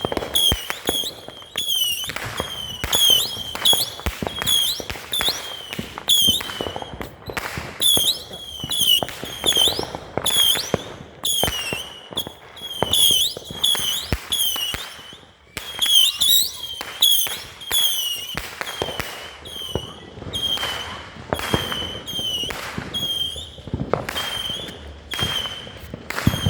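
A multi-shot consumer firework firing a long, steady run of shots, about two a second. Each shot has a short, bending whistle and a crackling pop, and the run does not let up.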